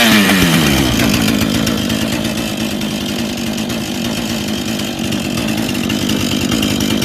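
Husqvarna 440 two-stroke chainsaw engine coming down from a brief rev in the first second, then running steadily at a low idle.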